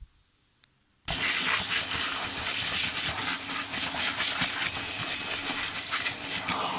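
Vacuum cleaner running with a brush tool, sucking dust off a Roomba's cleaning head: a loud, steady hiss that starts abruptly about a second in.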